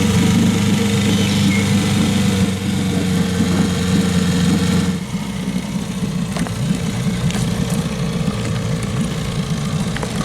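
1968 Evinrude 6 hp two-cylinder two-stroke outboard motor running after a cooling-system flush. It holds a steady note for about five seconds, then its note shifts and turns uneven for the rest.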